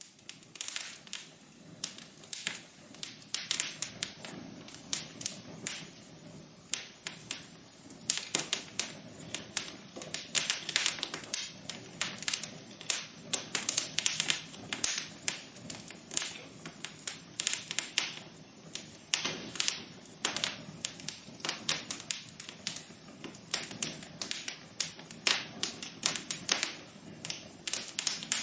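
Wood fire crackling in a fireplace: a dense run of irregular sharp pops and snaps over a soft steady hiss, growing busier and louder about eight seconds in.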